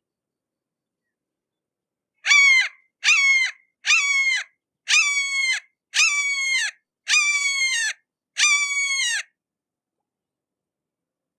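Red-shouldered hawk calling: a series of seven loud, harsh calls, each under a second and dropping in pitch at its end, about one a second.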